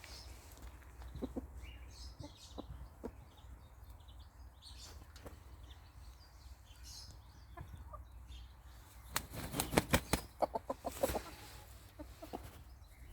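Barnevelder rooster flapping its wings in a rapid flurry that lasts about two seconds, starting about nine seconds in. Before it there are only a few faint, scattered short sounds.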